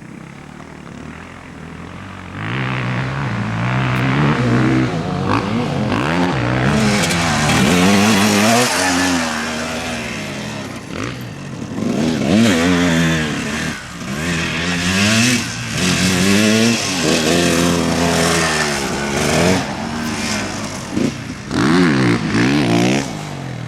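Motocross bikes revving hard, engine pitch climbing and dropping again and again as they accelerate and shift; it grows loud about two seconds in.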